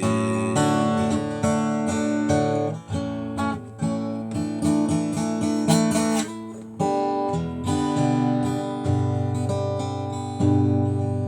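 Acoustic guitar strumming chords, an instrumental passage with no singing, the chords changing every second or so.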